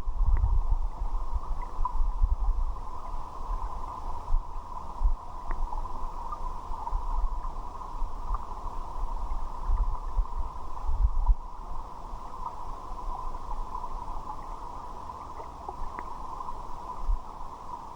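Muffled river water moving steadily, with irregular low rumbling bumps and a few faint clicks.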